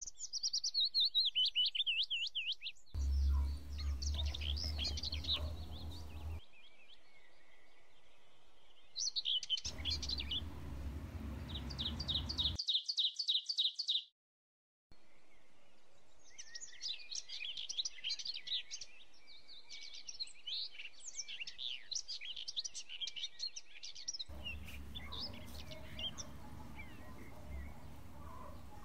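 Small birds chirping and trilling in stretches that change abruptly, with fast repeated chirps and warbling trills. A low rumble lies under some stretches, and the sound drops out briefly about halfway through.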